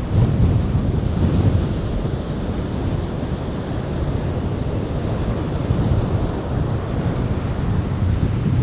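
Strong wind buffeting the clip-on microphone, a steady low rumble, over the wash of ocean surf breaking on the beach.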